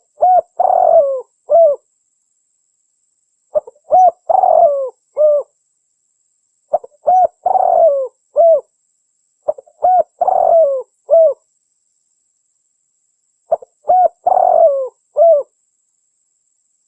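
Spotted dove cooing: a lure recording of its call, a short phrase of four or five coos with a longer note in the middle, repeated five times about every three seconds with dead silence between phrases.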